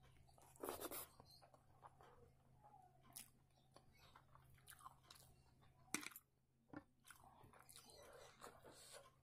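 Quiet close-up eating sounds of a person chewing a handful of rice eaten by hand: soft mouth clicks and smacks, loudest about a second in, with a sharp click about six seconds in.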